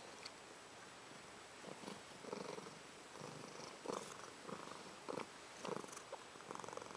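Faint, soft purring from a pet lying close by, pulsing in a steady rhythm.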